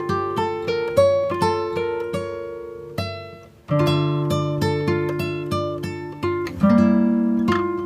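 Background music: acoustic guitar picking notes in a steady rhythm, with a short pause about three and a half seconds in.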